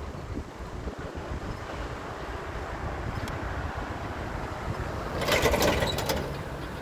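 Low vehicle engine rumble with wind buffeting the microphone, and a brief louder rattling clatter about five seconds in.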